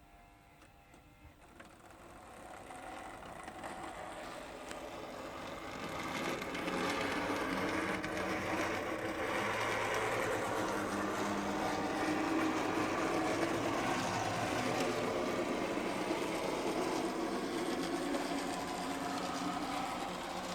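N gauge Minitrix model of a Warship class diesel locomotive running on its track: its small electric motor and gears whir steadily. The whir builds up over the first several seconds as the locomotive speeds up, then holds steady.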